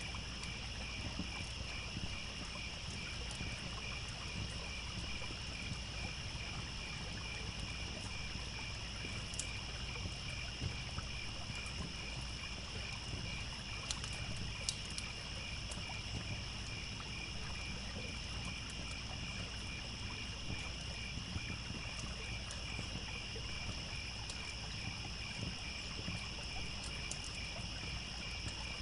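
Crickets chirping in steady, evenly repeating pulses over the low rush of a trickling stream, with a few sharp crackles from a campfire scattered through.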